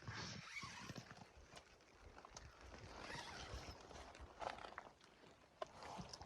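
Near silence: faint rustling with a few scattered light taps.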